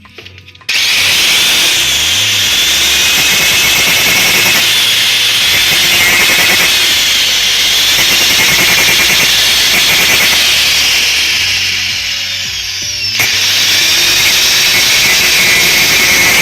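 Power tool cutting into the seized pulsator bush of a top-load washing machine. It starts abruptly about a second in, eases off briefly near the twelve-second mark, then cuts again.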